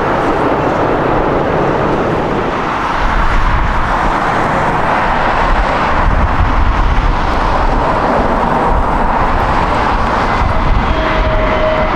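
Jet airliner engine noise: a loud, steady rushing sound with deep rumble. Near the end a higher whine sets in as another aircraft's engines come closer.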